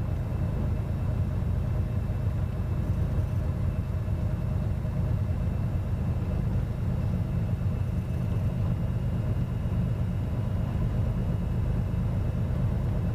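Cessna 210's six-cylinder piston engine idling on the ground, a steady low drone heard through the cockpit headset intercom.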